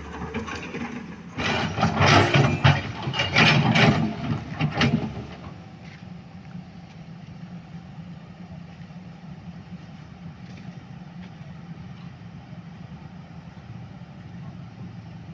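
A loud clattering burst for a few seconds, then a large engine running steadily with a low hum.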